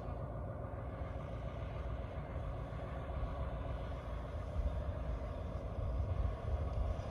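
Diesel engine of a Bluebird Wanderlodge FC motor coach running steadily, mostly low-pitched, after a temporary fix to its fuel shutoff solenoid.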